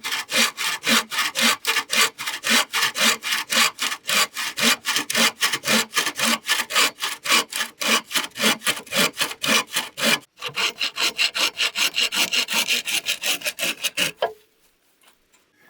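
Hand saw sawing in steady back-and-forth strokes, about three a second, pausing briefly about ten seconds in and stopping near the end.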